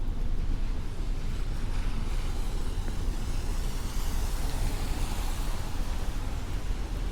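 Street traffic on wet pavement: a steady low rumble with tyre hiss that grows louder from about two seconds in as a vehicle passes.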